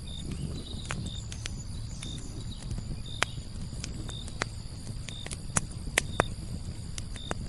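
Wood fire burning in a fireplace: irregular sharp crackles and pops over a low rumble of flames. A short high chirp repeats about once a second behind it.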